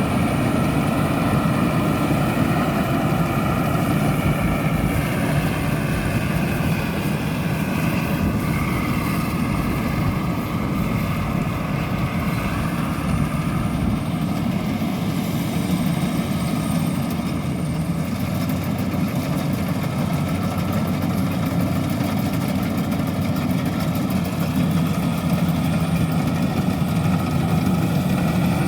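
Rice combine harvester running steadily: a continuous engine drone whose pitch drifts slightly up and down.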